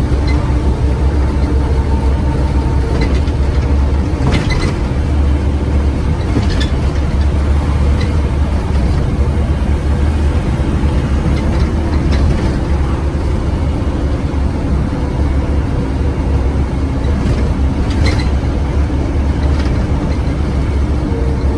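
Scania OmniCity bus diesel engine running at a steady pitch under way, a loud low rumble with a few sharp rattles from the bodywork.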